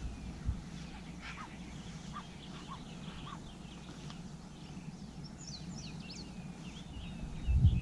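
Birds chirping and calling over a steady low outdoor rumble, with a louder low thump near the end.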